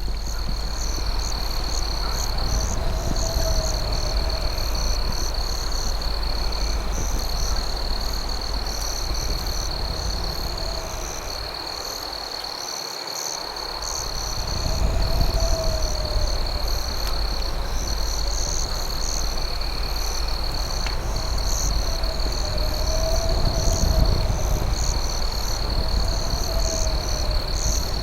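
Night insect chorus: crickets keep up a steady high trill, with a faster pulsing chirp above it. A lower call rises and falls every few seconds, over a low rumble that drops away for a moment about halfway through.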